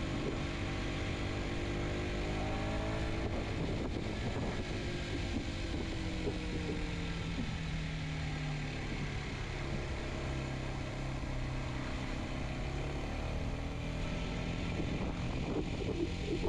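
Kawasaki Z125's small single-cylinder engine pulling the bike uphill, its pitch shifting as the throttle is opened and eased, held steady for several seconds in the middle, over a rush of wind noise.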